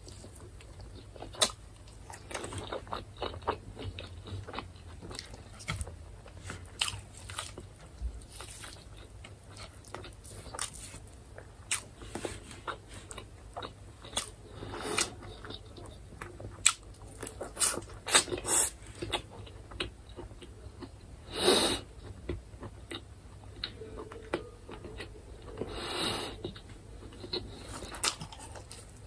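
Close-miked eating of chicken: wet chewing, bites and crunches with many sharp mouth clicks, plus two longer rushing noises, one about two-thirds of the way through and one a few seconds later.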